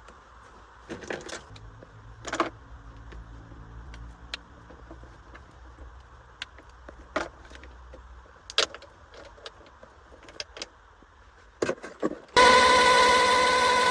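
Light metallic clicks and clinks from work on an old car, then, a little before the end, a loud steady mechanical drone with a strong pitched tone starts abruptly.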